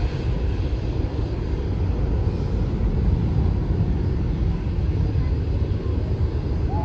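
Jet airliner engines, a steady low rumble.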